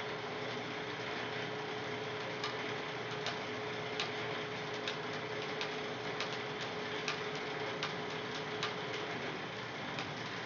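Home-built bandsaw sawmill running steadily. A held whine drops out near the end, and sharp ticks come about once a second.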